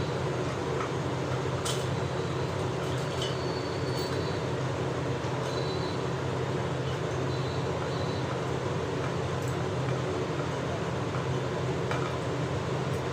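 A steady mechanical hum with a hiss, broken by a few light clinks.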